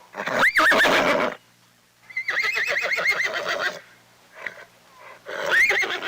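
Horse whinnying three times: a short call near the start, a longer trembling whinny about two seconds in, and another short one near the end.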